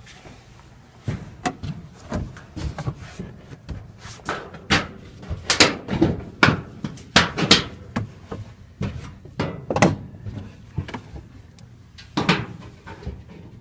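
Irregular knocks and clunks in a cramped space, as someone moves about inside a chimney shaft and bumps against the metal chimney pipe.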